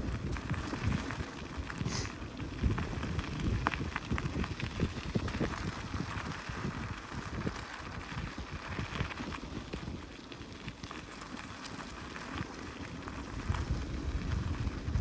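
Bridgestone MB3 mountain bike riding along a road: a steady crackle of the tyres on gritty pavement with small rattles from the bike, over a low, fluttering wind rumble on the microphone.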